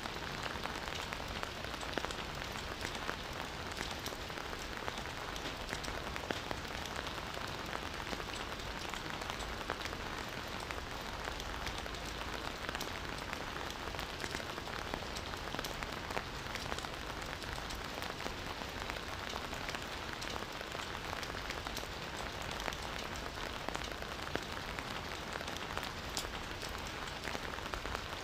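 Steady rain falling on a forest, a dense even patter with many individual drops ticking on leaves and surfaces.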